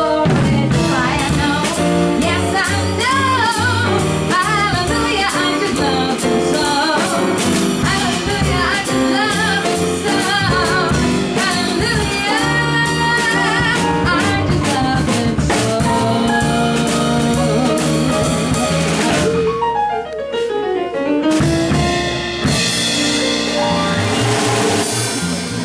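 A live band plays an upbeat rhythm-and-blues song with drum kit and other instruments, and possibly some singing. About twenty seconds in, a run of notes falls in pitch.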